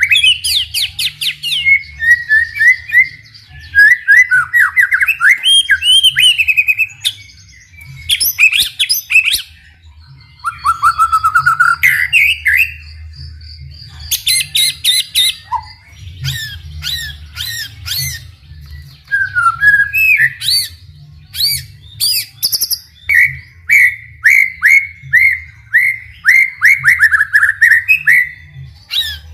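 White-rumped shama (murai batu) singing a long, varied song of rich whistles, rapid up-and-down trills and fast repeated notes with short pauses between phrases.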